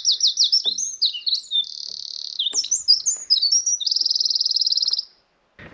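A small songbird singing a fast, varied song of high chirping notes, broken by two rapid even trills, the longer one about four seconds in. The song stops about five seconds in.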